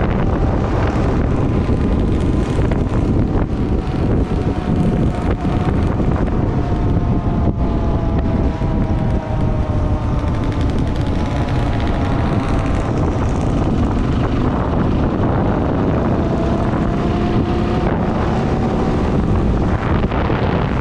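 Dual-sport motorcycle engine running under way, its pitch slowly falling and then rising again as the rider's speed changes, with heavy wind buffeting on the microphone.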